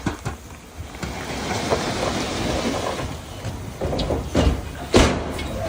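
Komatsu D31P crawler bulldozer working, a rattling clatter of machinery with sharp metallic knocks about four seconds in and again, loudest, about five seconds in.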